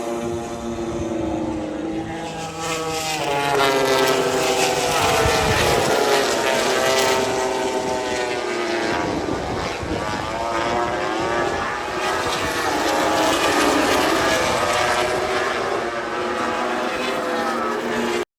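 MotoGP race bikes passing on the circuit, their four-cylinder engines rising and falling in pitch as they go by and shift gears, one bike after another.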